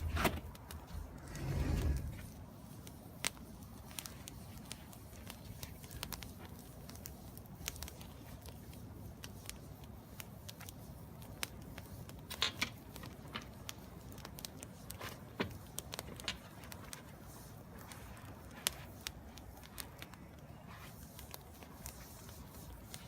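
Wood fire of green, scavenged branches burning in a fire pit, crackling with scattered sharp pops. There is a brief, louder low sound about two seconds in.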